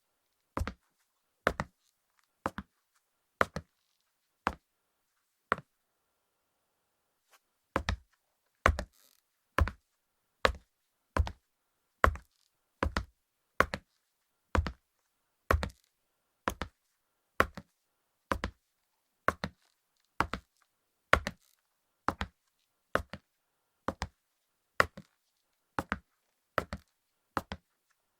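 Footsteps in leather sandals with hard leather soles on a hardwood floor, at a moderate walking pace of about one step a second. Each step lands as a sharp knock, and the steps stop for about two seconds a third of the way in, then carry on at the same pace.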